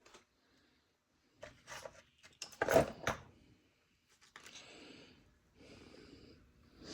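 Handling noises: a few short rustles and light clicks, the loudest about two and a half seconds in, followed by softer rustling.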